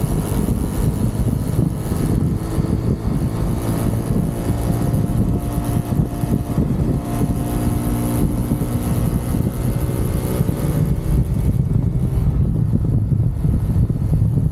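UM Renegade Commando 125 motorcycle engine running while riding, with wind rushing over the microphone.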